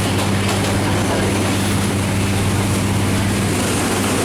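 Steady running noise inside an economy-class passenger train coach: a constant low hum under an even, unbroken hiss.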